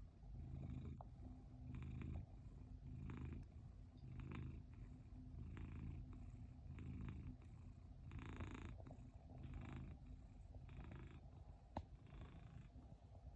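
Domestic cat purring steadily and quietly, the purr swelling and fading with each breath about every second and a bit. A single short click comes near the end.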